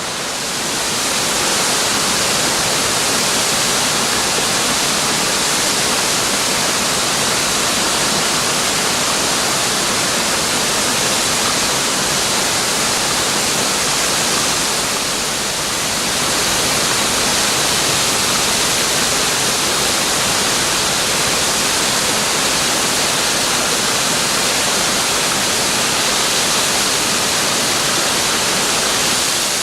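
Waterfall: the steady rush of falling water, an even hiss strongest in the upper range, easing slightly for a moment about halfway through.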